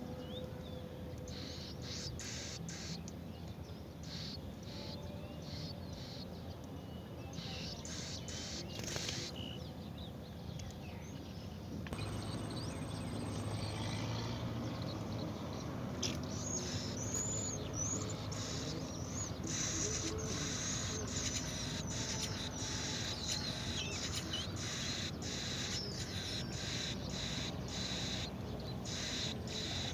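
Birds chirping with short high calls over steady outdoor background noise, with many small clicks; the background changes abruptly and gets louder about twelve seconds in.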